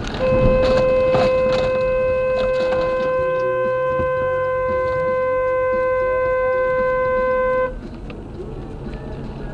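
Car horn held down in one long, steady blast of about seven and a half seconds, cutting off suddenly.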